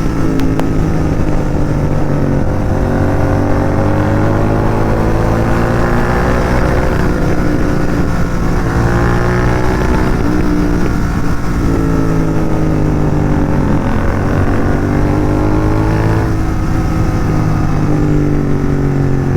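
Royal Enfield Continental GT 650's parallel-twin engine under way, breathing through an aftermarket megaphone exhaust. Its pitch climbs and then drops several times as the rider accelerates and shifts gears.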